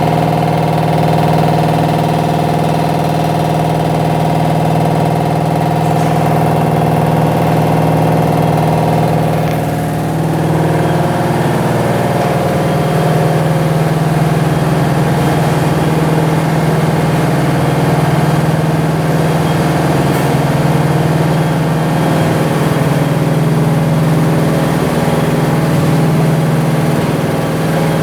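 Vibrating-discharge vortex vegetable washing machine running: a loud, steady machine hum with a strong low tone. About ten seconds in, the higher tones shift and the sound turns rougher, then it carries on steadily.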